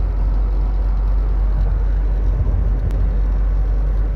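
Toyota Tacoma pickup driving on the road, a steady low rumble of engine and road noise heard from inside the cab.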